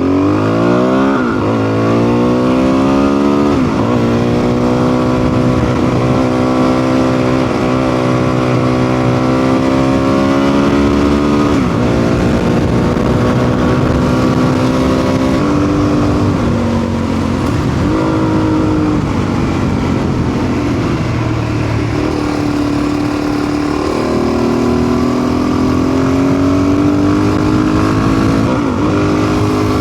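Motorcycle engine pulling away and working up through the gears. Its pitch climbs and drops sharply at each upshift, about a second in, near four seconds and near twelve seconds. After that it runs at a steadier road speed with small dips and rises as the throttle changes.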